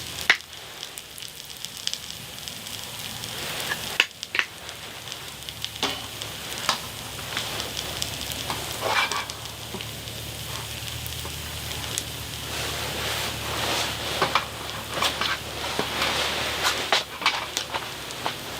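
Food frying with a steady sizzle, with sharp clicks and knocks scattered through it every second or so.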